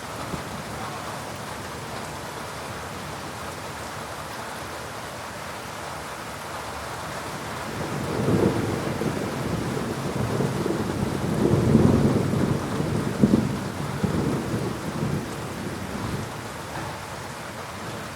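Steady heavy rain, with a rolling peal of thunder that builds about halfway through, peaks a few seconds later and fades away near the end.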